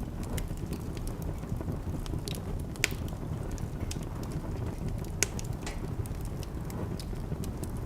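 Wood fire crackling in a fireplace: a steady low rumble with frequent small pops and snaps, two of them louder, about three and five seconds in.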